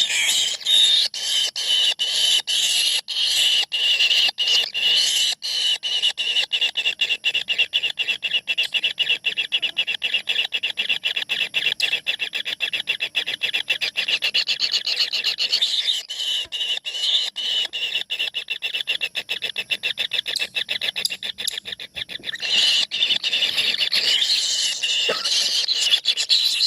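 A brood of four tengke bird nestlings calling from inside their nest hole: a dense, continuous high-pitched chorus of rapid calls, dipping briefly about two-thirds of the way through before it picks up again.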